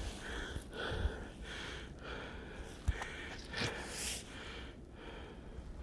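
A man breathing hard through the nose and mouth in a quick run of short breaths, from the exertion of walking in the cold.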